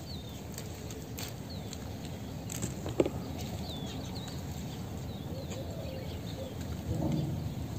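Small birds chirping here and there over a steady outdoor hiss, with one sharp click about three seconds in.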